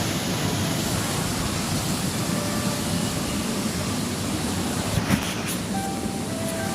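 Waterfall: a steady rush of falling water, with a brief knock about five seconds in.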